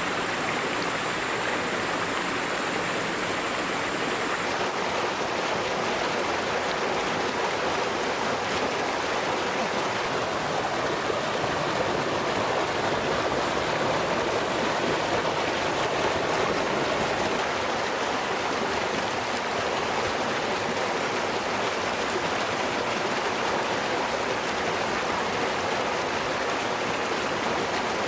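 Flowing river water rushing over rocks, a steady even rush. A faint thin high tone stops about four seconds in.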